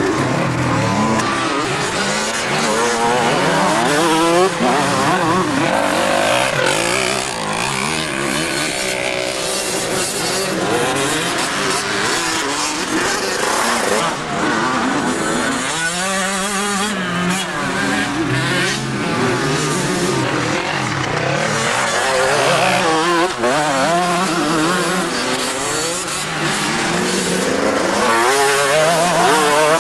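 Several motocross bikes' engines revving up and down at once, their pitches rising and falling as they overlap, with no let-up.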